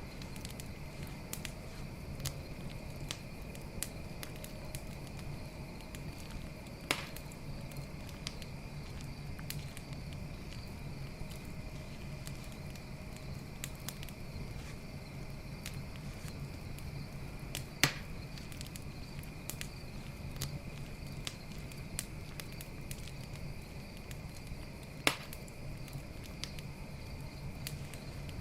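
Campfire crackling with scattered small snaps and three louder pops spread through, over a steady high trill of night insects such as crickets.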